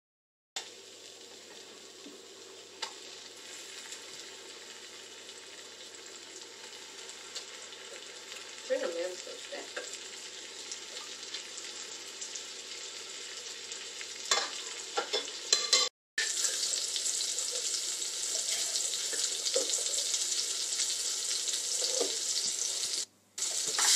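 Butter sizzling in a nonstick frying pan with lingcod cakes frying in it, a steady sizzle that grows louder. There are a few soft knocks around the middle, and the sizzle is louder after a brief break about two-thirds through.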